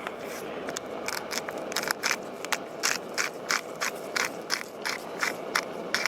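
Beef mince with onion and garlic frying in a pan: a steady sizzle with sharp crackles or scrapes about three times a second.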